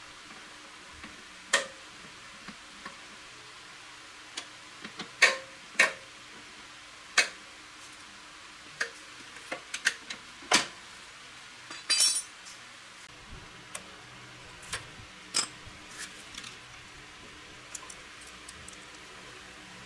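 Irregular sharp metal clicks and light clinks of tools and small parts being handled, a dozen or so spread out, with a quick rattle of several clinks about twelve seconds in.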